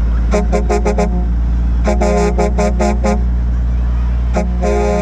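Semi-truck air horns honking in quick rhythmic toots, two runs of five and six, then a single toot and a long held blast near the end, over a steady low engine hum.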